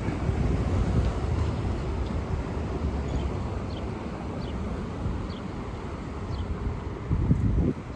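Road traffic going by: a steady low rumble of engines and tyres, swelling briefly near the end.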